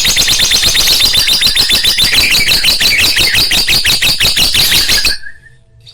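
Lovebird giving a loud, rapid chattering trill of sharp chirps, about ten a second, that stops about five seconds in.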